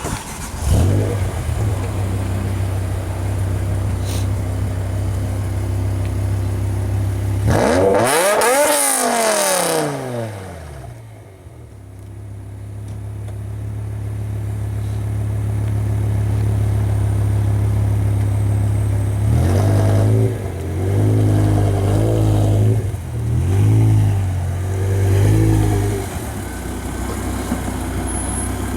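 BMW M5 E60's V10 engine through an Akrapovic exhaust, idling and then revved: one long rev that climbs and falls back about a third of the way in, then a quick run of about five short blips of the throttle near the end before settling back to idle.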